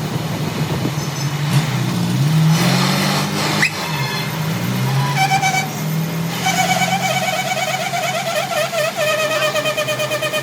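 Workshop machinery running: a low motor hum whose pitch slides up and down, then, from a little past halfway, a steady fast-pulsing whine.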